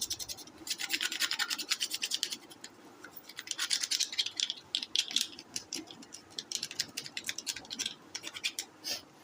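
Rapid scrubbing and scratching strokes on an air cooler water pump's plastic mesh screen, cleaning off dirt, in several bursts with short pauses between them.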